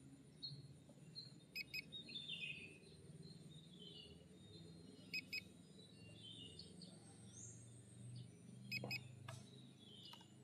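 Faint birds chirping, repeated short falling chirps, with a few brief sharp double beeps and a faint low hum underneath.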